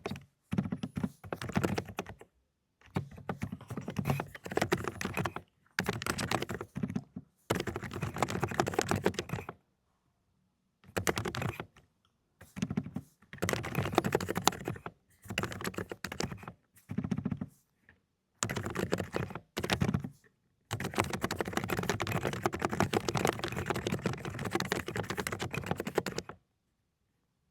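Fast typing on a Dokgeomi (AULA) mechanical keyboard with low-noise cotton candy switches: dense runs of key presses lasting a second or several, broken by short pauses.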